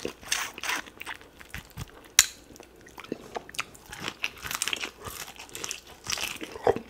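A person biting and chewing duck meat gnawed off the bone, close to the microphone. Irregular crunches, with one sharp click about two seconds in.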